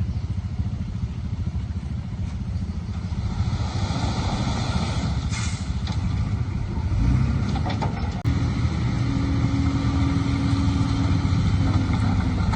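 Heavy diesel engine running steadily, with a brief rushing noise near the middle. About two-thirds in, after a sharp click, the engine gets louder and settles on a higher steady note.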